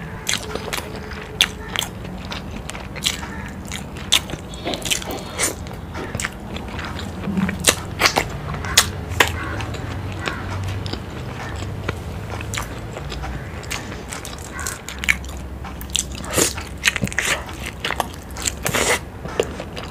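Close-miked chewing and biting of curry-coated fried boiled eggs, with many sharp, irregular wet mouth smacks and clicks. A burst of louder smacks comes near the end as another egg is bitten into.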